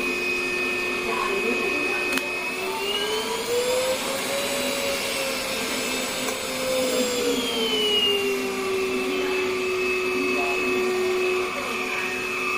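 Russell Taylors V5 cordless vacuum cleaner running, a steady motor whine. Its pitch rises about three seconds in, holds, and falls back to the lower speed around eight seconds in.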